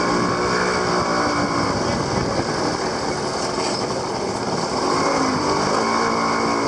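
Small motorcycle engine running under way, with a dense, steady noise of traffic and street bustle around it. The engine's pitch shifts near the start and again about five seconds in.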